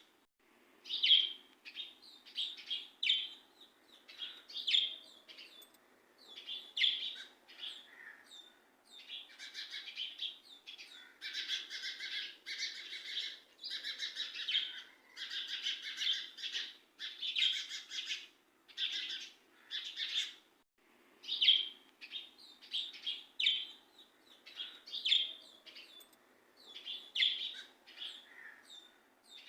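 Small birds chirping, a quick string of short repeated chirps that grows busier and fuller in the middle stretch, over a faint low hum.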